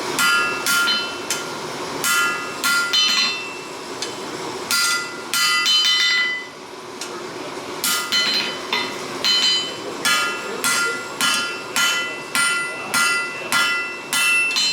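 Hammer blows on steel over an anvil while forging a small sword blade. The ringing strikes come about two a second in runs, with a couple of short pauses.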